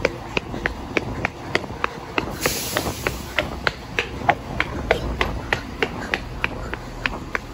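Transport for Wales train passing along the platform: a rapid, even clicking at about four a second over a low rumble, with a short burst of hiss about two and a half seconds in.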